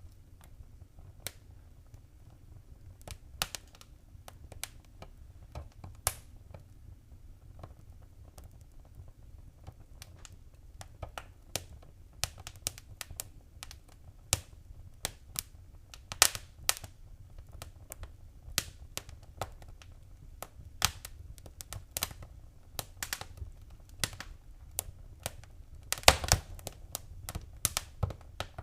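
Fireplace fire crackling: irregular sharp pops and snaps over a low steady rumble of the flames. The pops are sparse at first, come thicker after about ten seconds, and a loud burst of snaps comes near the end.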